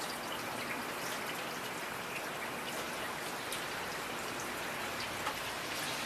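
Steady rain falling, with many distinct drops tapping close by over an even hiss of rainfall.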